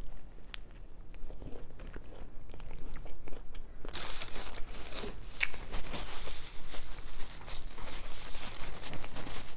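A person chewing and crunching food with the mouth, sparse soft clicks at first and denser crunching from about four seconds in.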